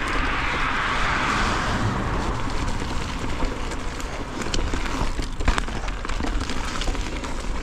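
Mountain bike being ridden on a trail: a steady rumble of tyres and wind on the microphone, with the bike rattling in scattered clicks and a sharper knock about five and a half seconds in.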